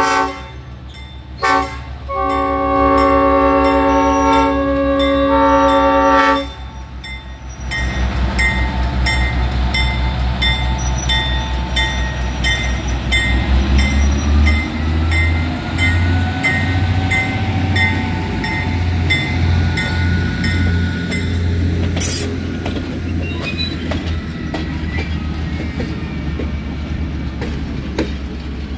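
Diesel switcher locomotive's multi-note air horn sounding at a road crossing: a blast, a quick toot, then a long blast that cuts off about six seconds in. The locomotive's diesel engine then throbs and swells as it pulls the passenger coaches past, their wheels clicking over the rails.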